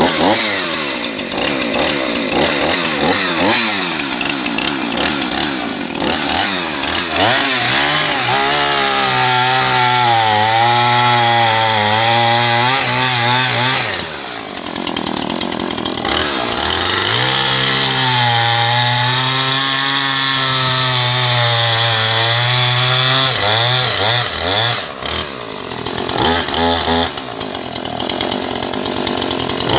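McCulloch CS 450 chainsaw's 45 cc two-stroke engine running hard. It is revved up and down, then held at high revs with a slightly wavering pitch for two long spells of several seconds, with a brief drop in revs between them.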